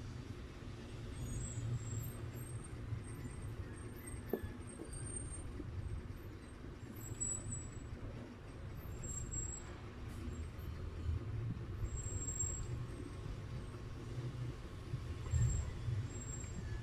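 Close-miked eating of spaghetti: low, uneven chewing and mouth sounds as forkfuls are taken from a glass bowl, with a faint clink about four seconds in.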